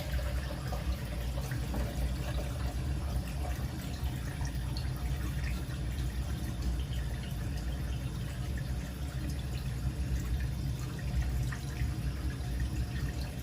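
A hot water tap running into a sink, with a steady low hum underneath, while a newly repaired boiler's hot water is being tested.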